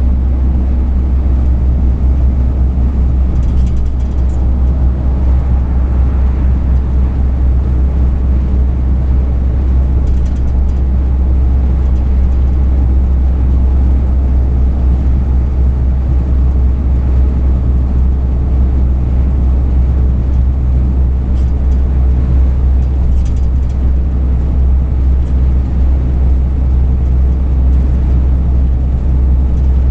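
Delivery truck driving, heard through its dash cam: a steady deep rumble of engine and road noise, with a few faint ticks.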